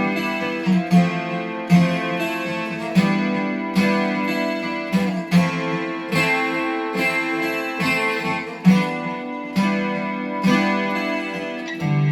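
Acoustic guitar playing an instrumental passage, strummed chords with a sharp accent about once a second.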